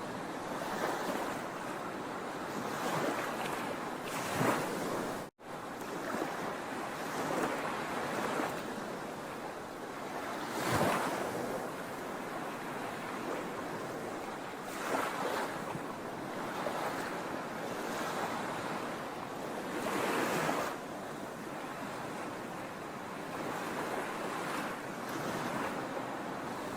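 Sea waves breaking and washing on the shore: a steady rush of surf that swells every few seconds as each wave comes in. The sound cuts out for an instant about five seconds in.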